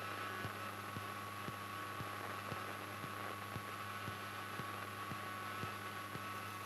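Steady low hum and hiss of a Cessna 152 cockpit audio feed while taxiing, with a few faint steady tones and faint regular ticks about twice a second.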